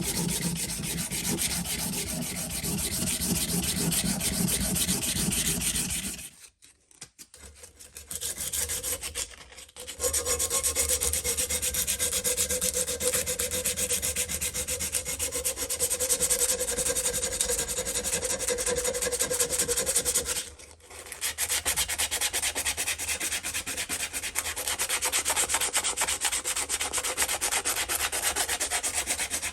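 Sanding on the old cobbler's hammer: a steady rubbing rasp that pauses briefly twice.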